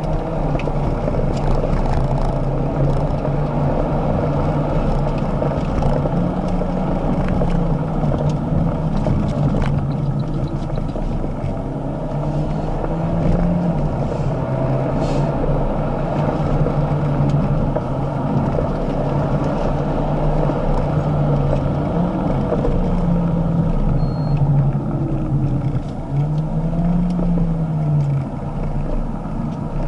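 Inside the cabin of an Alfa Romeo Giulietta Veloce, its turbocharged 1.7-litre four-cylinder engine pulls and eases off over and over, its note rising and falling several times, over steady road noise.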